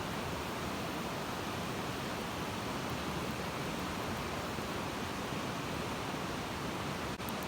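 Bonfire burning: a steady rushing hiss with a few faint crackles, briefly cutting out about 7 seconds in.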